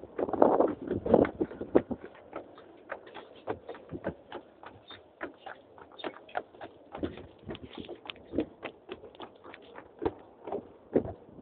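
A Clydesdale's hooves clip-clopping as it pulls a horse tram, a steady run of knocks and clicks several a second, a little louder in the first couple of seconds.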